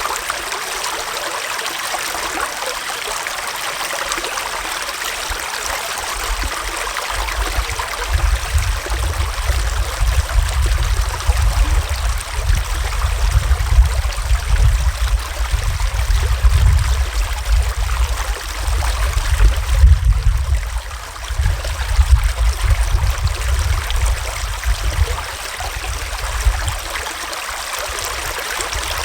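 Small forest stream flowing steadily, an even rush of water. From about a quarter of the way in until near the end, a low, uneven rumble swells and fades beneath it.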